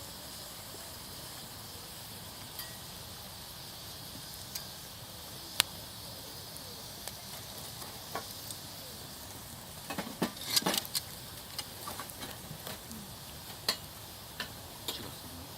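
Wood campfire crackling: scattered sharp pops over a steady hiss, with a quick cluster of louder pops about two-thirds of the way through.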